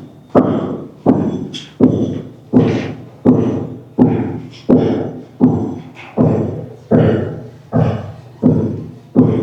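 Steady, evenly paced hammer blows, about three every two seconds, each ringing out briefly after the strike.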